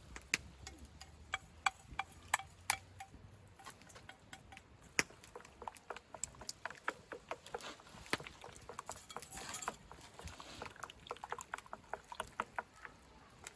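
Irregular taps and clicks of a knife cutting food on a cutting board, in quick clusters with short pauses.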